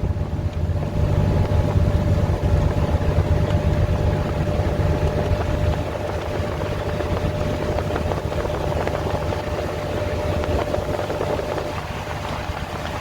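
Speedboat engine running steadily under way, a constant low hum with a thin steady whine, over a rushing noise of water and air.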